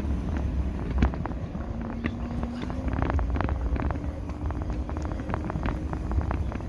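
Electric motorbike riding slowly, with wind rumbling on the microphone, a thin steady motor hum that rises slightly in pitch about two seconds in, and frequent small clicks and rattles.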